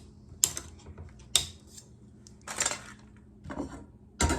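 Kitchen clatter of metal and dishes while a can of mandarin oranges is handled for draining: a few separate sharp clinks, a short scraping rattle in the middle, and a louder knock near the end.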